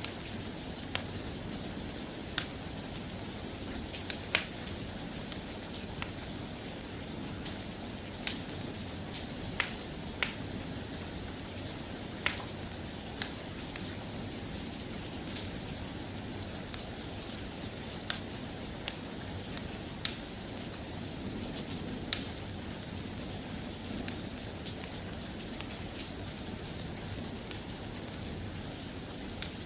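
Steady, soft rain, a continuous hiss, with sharp single pops or ticks every second or two.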